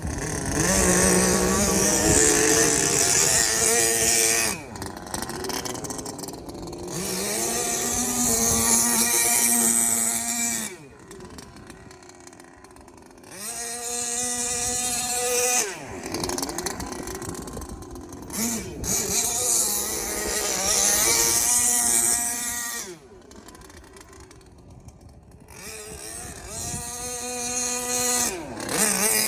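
Small two-stroke gasoline engine of a Traxxas Savage Octane RC truck, being run in during break-in. It is revved up five times, roughly every six seconds, each rev climbing in pitch and then dropping back to a steady idle.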